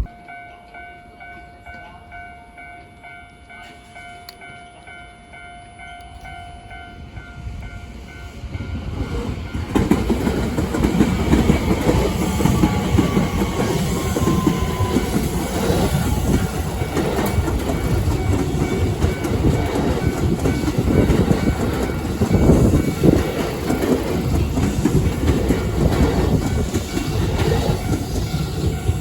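Japanese railway level-crossing bell ringing its steady repeated ding. About nine seconds in, a JR West Haruka limited-express train passes over the crossing, its wheels clattering over the rail joints and drowning out the bell.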